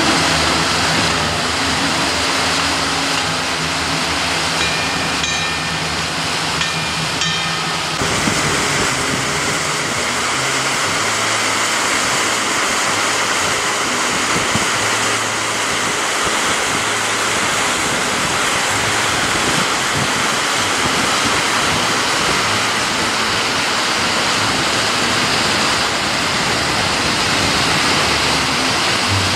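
A waterfall's water rushing in a steady, even roar. For the first eight seconds a steady low hum and a few high tones run under it, then stop abruptly.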